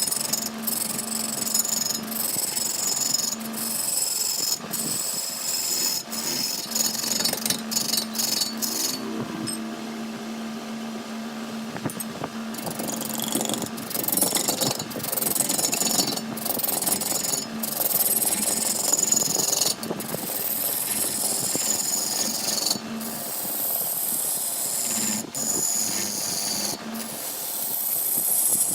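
Wood lathe turning, the motor humming steadily while a turning tool cuts the spinning wood with a rasping scrape and high whistling tones that slide in pitch. The sound breaks off briefly and starts again every second or two.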